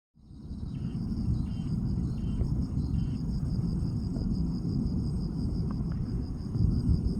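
Outdoor ambience: a steady low rumble under insects trilling in a fast, pulsing high note, with four short high chirps spaced evenly in the first three seconds.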